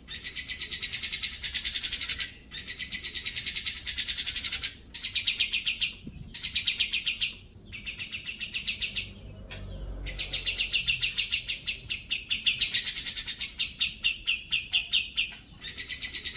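Grey-cheeked bulbul (cucak jenggot) singing: long, loud phrases of fast, rattling repeated notes, with short breaks between them.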